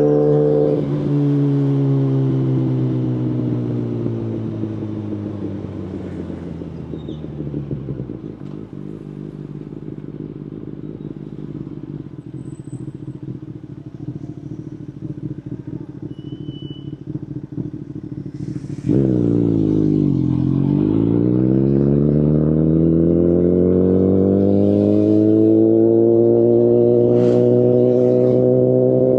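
Kawasaki Ninja ZX-10RR inline-four through an Akrapovic Evolution full carbon exhaust, dropping in revs to a low, steady idle. About two-thirds of the way through it gets suddenly louder and then rises steadily as the bike accelerates away.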